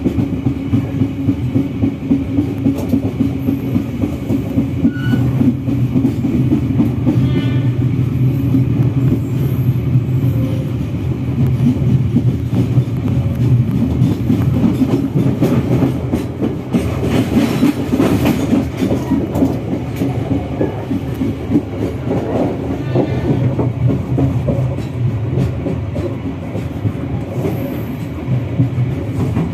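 Locomotive-hauled passenger train (the Kahuripan) running, heard from inside a coach: a steady low hum with the clickety-clack of wheels over rail joints. The noise swells briefly about 17 seconds in.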